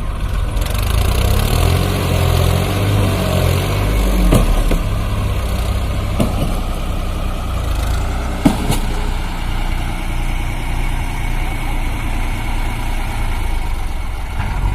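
Heavy diesel engine running, with its note shifting in the first few seconds, and sharp knocks about four, six and eight and a half seconds in.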